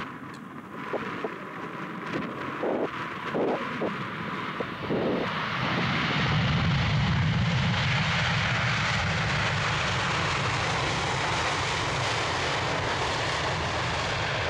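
Boeing 747-8 freighter's four GEnx turbofans: jet noise swells about five seconds in, then holds steady and loud as the aircraft comes close. Wind buffets the microphone before the jet noise builds.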